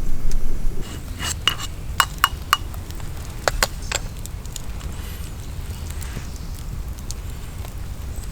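Camp cookware clinking: a handful of light, sharp clinks with a short ring, clustered between about one and four seconds in, over a steady low rumble.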